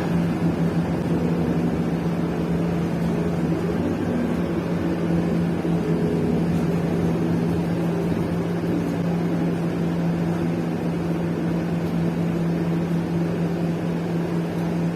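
Steady running drone of a city bus under way, heard from inside the cabin, with a constant low hum from the drivetrain.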